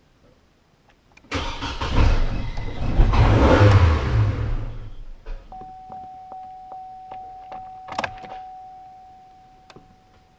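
A truck engine being cranked on a hard start: it bursts into a loud rumble about a second in, holds for a few seconds, then fades away over several seconds as it fails to keep running. A steady tone with evenly spaced ticking, about two and a half a second, comes in partway through.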